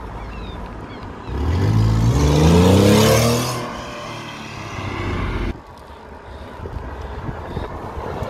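Porsche 911 Carrera's flat-six engine revving as the car accelerates away. Its pitch climbs steadily for about two seconds, then eases off. About halfway through, the sound cuts abruptly to a quieter, low engine note.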